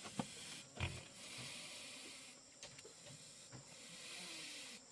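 A single dull knock about a second in, over a faint steady hiss.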